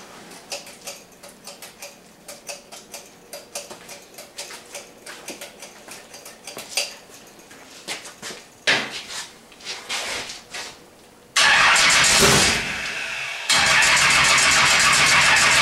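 Fuel-injected small-block Chevy V8 in a 1955 Chevy gasser being brought back to life after 29 years, primed with squirts of fuel. After light clicks and rattles of hands at work, it suddenly fires about eleven seconds in. It falters briefly, then catches again and runs loudly and steadily.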